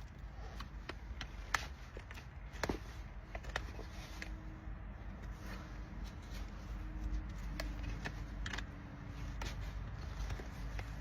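Irregular scraping and clicking of hoof trimming on a Shire horse's hoof, over a steady low background rumble.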